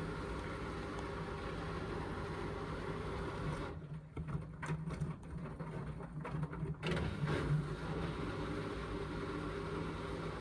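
Indesit washing machine's motor running and its drum turning a full, unbalanced cotton load between rinse and intermediate spin. There is a steady hum throughout, uneven and louder for a few seconds in the middle.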